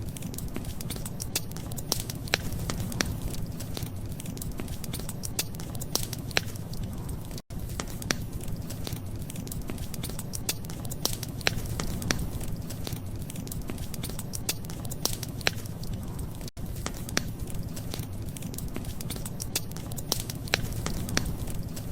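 Wood fire crackling, with irregular sharp pops over a steady low rumble. The sound cuts out for an instant twice.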